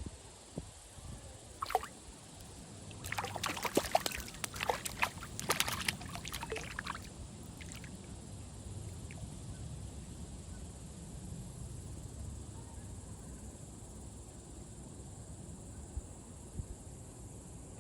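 Small splashes and sucking sounds at a pond's surface as a crucian carp mouths the bait: a single one near the start, then a cluster between about three and seven seconds in, over a low steady outdoor rumble.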